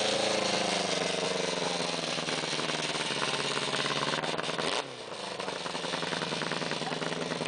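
Yamaha motorcycle engine of a racing lawn mower running, its speed sinking slowly, then dropping abruptly about five seconds in and carrying on at a lower, steady pitch.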